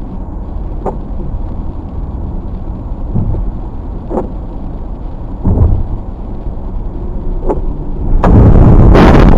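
Car on the road: a steady low rumble of engine and road noise with a few faint clicks. About eight seconds in, a much louder rushing noise comes in and takes over.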